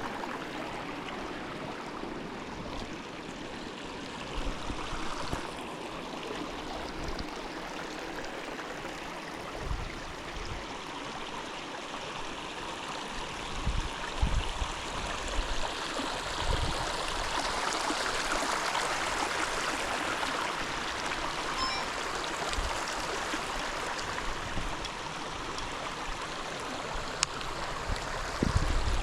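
Rain-fed stream running steadily, a continuous rush of flowing water, with a few short low bumps on the microphone.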